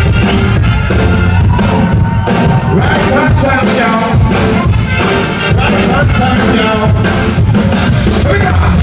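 Live band music played loud through a venue PA, with heavy bass, a steady drum beat and some singing.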